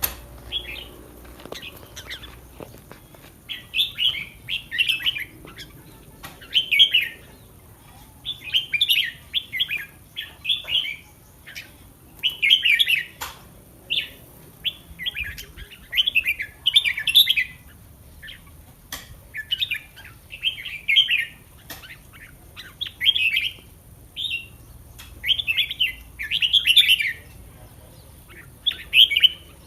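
Red-whiskered bulbul singing short, bright warbled phrases over and over, one every second or two, with a few light clicks between them.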